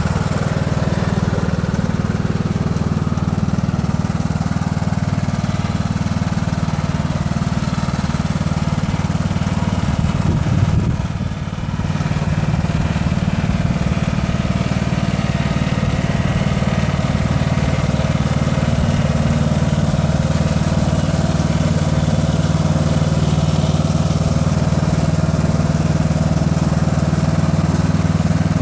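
Riding lawn tractor's engine running steadily, with a brief dip in level about eleven seconds in.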